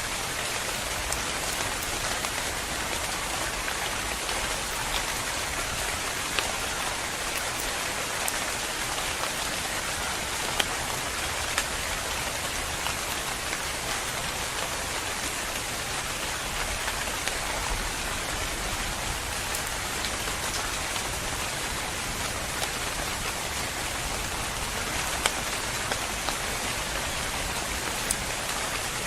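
Steady rain falling on a surface, with occasional single drops standing out as sharp ticks.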